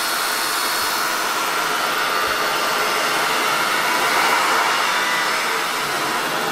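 Honda Accord V6 engine running, heard as a steady rushing noise that grows slightly louder around the middle.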